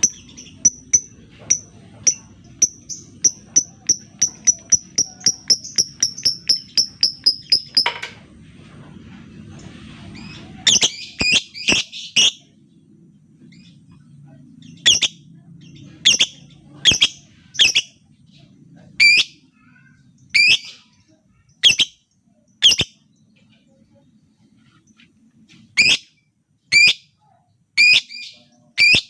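Lovebird calling: a fast run of short, high chirps that speeds up over about eight seconds, then, after a short pause, loud sharp shrieks singly and in quick clusters, roughly a second apart.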